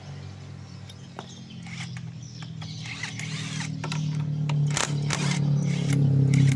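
Metal clicks and clanks of work on a scooter's CVT clutch, over a steady low hum that grows louder toward the end.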